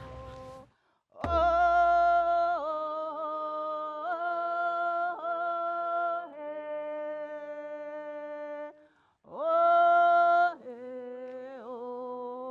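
A solo voice singing long held notes without recognisable words, pausing briefly twice, with a low thump as the singing starts.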